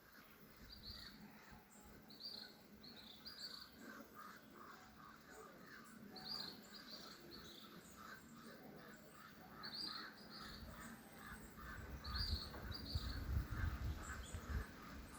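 Birds calling: short high chirps, often in pairs, every few seconds over a steady chattering of lower calls. A low rumble rises in the last few seconds.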